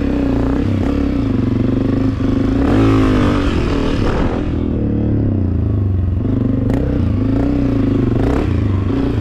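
Two-stroke dirt bike engine idling, revved up once and back down about three seconds in.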